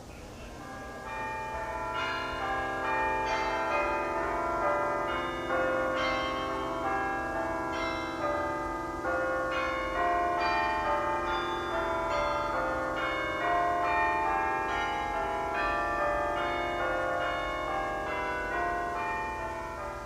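Bells ringing in a dense peal of many overlapping strikes, each tone ringing on; the peal swells in over the first couple of seconds and fades away near the end.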